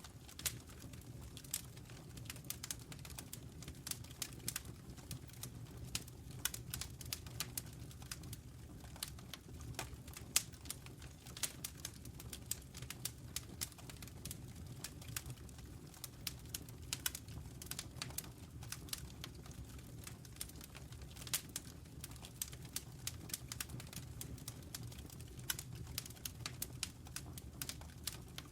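Wood fire burning in a fireplace: dense, irregular crackling and popping over a steady low rumble of the flames.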